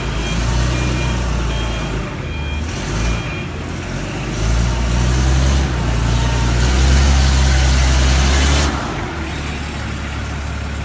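Diesel forklift's Mitsubishi engine running, with a reversing alarm beeping in short repeated pulses for the first three seconds or so. About halfway through the engine revs up and gets louder, with a hiss joining it, then it drops back to an idle just before the end.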